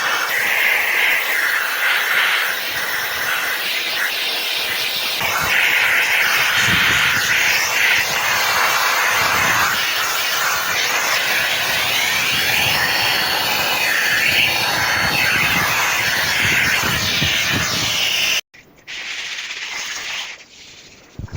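Water spraying hard against a surface with a steady hiss that changes tone as the spray moves. It cuts off suddenly about eighteen seconds in, leaving a quieter sound.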